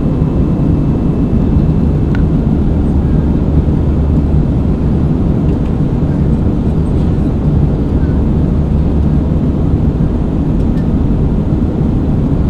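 Steady cabin noise of an Airbus A320 airliner in flight: a loud, even, low drone of the engines and airflow.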